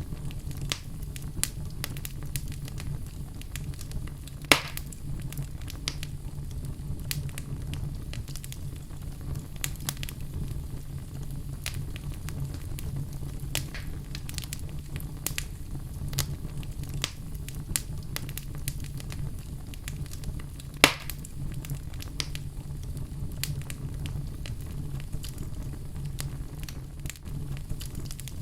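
Wood fire burning in a fireplace, crackling steadily over a low rumble of flames, with two louder pops, one about four seconds in and one about two-thirds of the way through.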